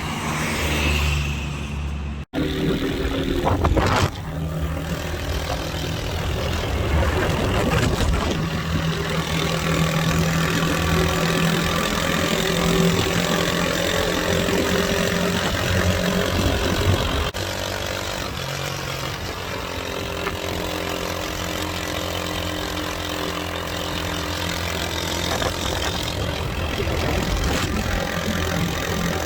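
A motor vehicle engine running steadily over road noise, its pitch shifting now and then. The sound breaks off for an instant about two seconds in and changes abruptly about seventeen seconds in, as at edits.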